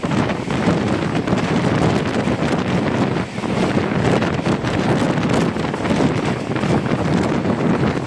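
Wind buffeting a microphone held out of a moving express train's window, over the steady rumble of the coach running along the track.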